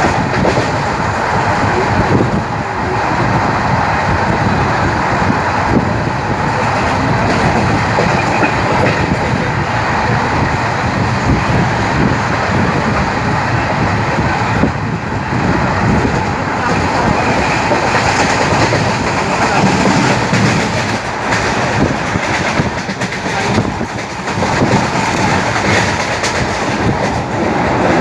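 Naini Doon Jan Shatabdi passenger train running, its coach wheels clattering steadily over the rails.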